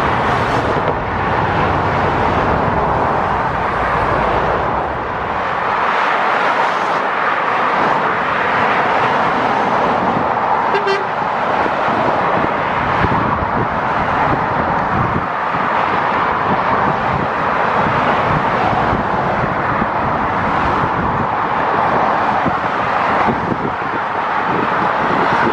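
Steady road traffic noise, the tyres and engines of passing vehicles swelling and fading every few seconds. About eleven seconds in there is a brief short beep.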